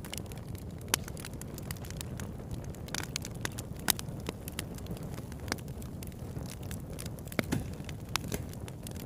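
Campfire burning: wood crackling with irregular sharp pops over a low, steady rumble.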